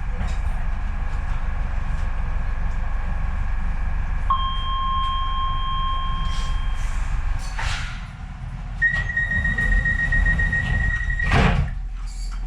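A Docklands Light Railway train stands at the platform with a steady low hum. About four seconds in, a long electronic warning tone sounds, followed by a thud. A second, higher, warbling tone follows and ends in a louder thud near the end, as the door warning sounds and the doors close before departure.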